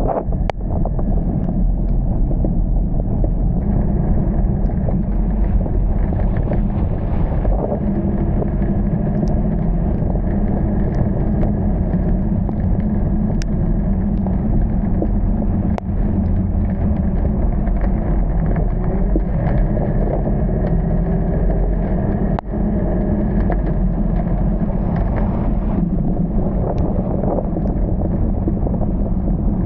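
Vehicle driving through heavy rain: a steady low rumble of engine and tyres on wet road, with a few sharp clicks.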